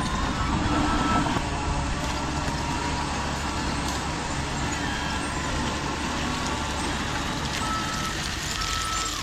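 Radio-controlled construction truck running, with its reversing beeper sounding. A short high beep repeats about once a second at the start and again near the end.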